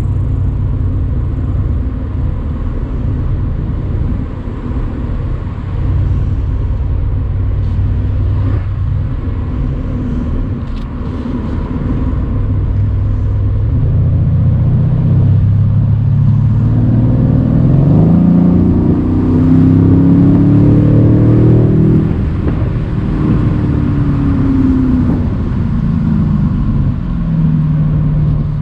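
Mercedes-AMG C63's twin-turbo V8 pulling along steadily, then accelerating from about halfway in with its note climbing and getting louder, before easing off and dropping back in pitch a few seconds later. Road and wind noise run underneath, heard with the convertible's roof open.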